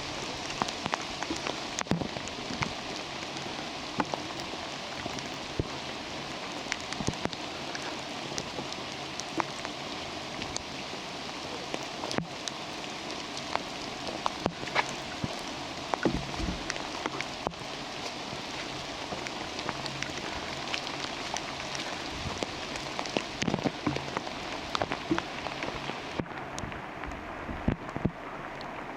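Steady rain falling, with many sharp, irregular drops pattering close by.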